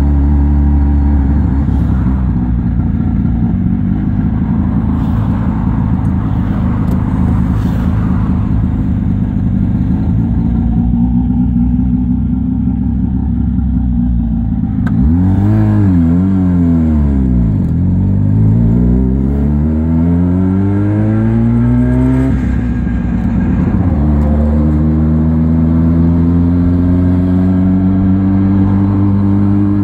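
A 1958 Berkeley SE328's small two-stroke twin engine drives the car along at a steady note. About halfway it dips and rises quickly twice, then climbs in pitch for several seconds, drops back at a gear change, and climbs steadily again near the end.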